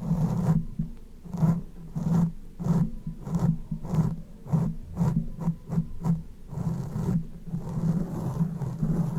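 Repeated rubbing or scraping strokes, about two a second, quickening around the middle and running together into a continuous scrape near the end.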